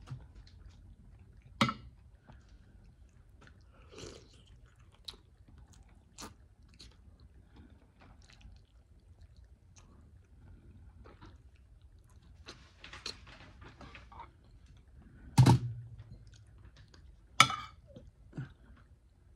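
A person chewing and eating chicken curry, with soft mouth noises throughout. A few sharp clinks of cutlery on the plate come through, one near the start and three close together in the last few seconds.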